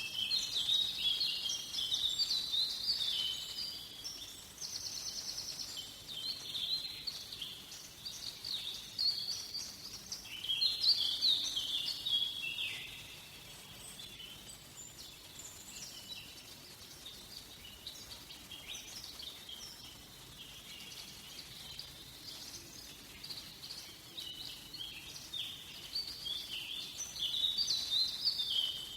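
Wild birds singing in a forest: overlapping songs of quick chirps and trills. They are busiest for the first dozen seconds and again near the end, with sparser calls in between.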